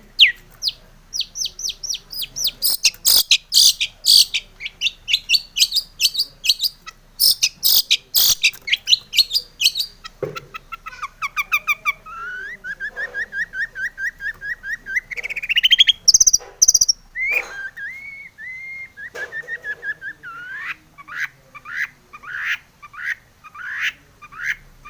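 Long-tailed shrike (cendet) singing in full voice: rapid series of short, sharp calls, several a second, then whistled, sliding and trilled phrases from about ten seconds in, and repeated sharp calls again toward the end.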